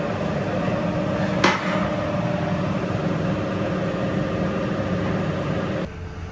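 Steady running noise of workshop machinery with a low hum. There is a single sharp metallic clank with a brief ring about a second and a half in. Near the end the noise cuts off abruptly to a quieter background.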